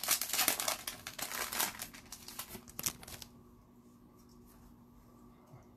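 Trading-card pack wrapper crinkling and rustling as it is handled, a rapid patter of small crackles that stops about three seconds in.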